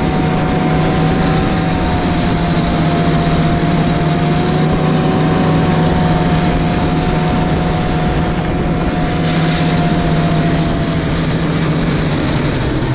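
Snowmobile engine running loud and close at a steady speed, with a steady whine over the low drone. Right at the end the engine note drops as it slows.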